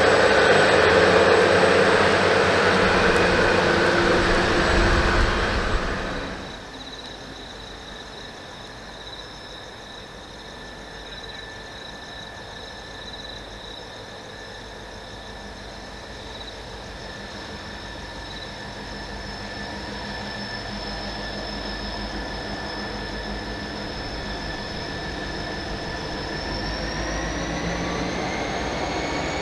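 A train runs past loudly for the first few seconds, then the sound cuts away abruptly. A second train then approaches, a steady high whine over low rumble growing gradually louder, with its whine rising in pitch near the end.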